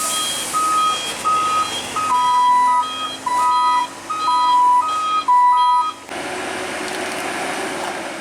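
Two vehicle reversing alarms beeping together at different pitches: a higher one with short beeps about one and a half a second, joined about two seconds in by a lower one with longer beeps. Both cut off suddenly about six seconds in, leaving a steady, noisy vehicle rumble.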